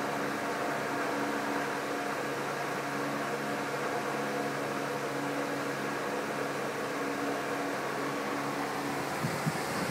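Smoke machine running steadily during an intake manifold vacuum-leak smoke test: an even hum with hiss. A few light ticks come near the end.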